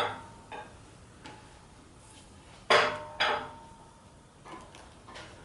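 Metal clanks and knocks, each ringing briefly. The loudest pair comes about two and a half and three seconds in, with lighter taps between.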